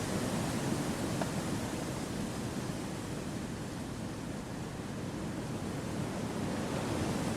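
Wind blowing through forest trees, an even, steady noise that eases a little in the middle and swells again near the end.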